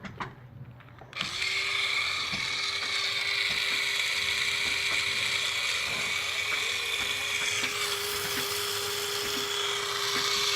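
Small geared electric motor of a homemade toy tractor running, switched on about a second in and whirring steadily at one pitch.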